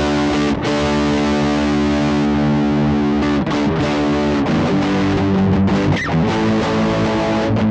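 Electric guitar played through an overdrive and amp-simulator pedal chain (Cuvave ODrive Blues into a Behringer GDI21), giving a driven, tube-amp-like tone. Sustained notes and chords ring out, with brief breaks where the notes change.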